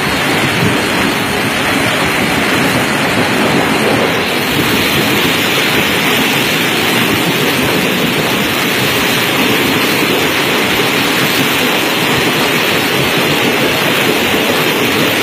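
Steady, loud rushing roar of a train running at speed, holding even throughout.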